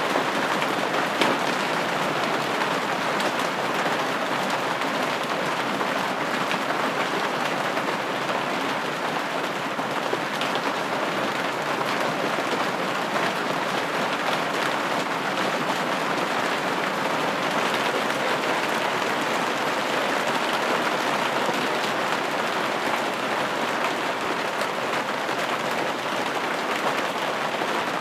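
Steady rain pattering against a window pane, an even hiss of drops with no breaks or changes.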